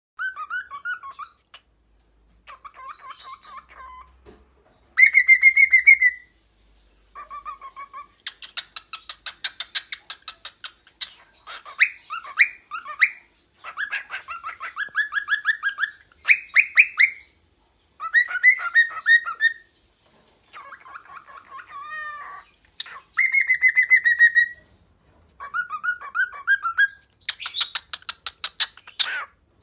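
Female cockatiel singing: a string of short whistled phrases, some rising and some wavering, with stretches of rapid buzzy chatter and brief pauses between phrases.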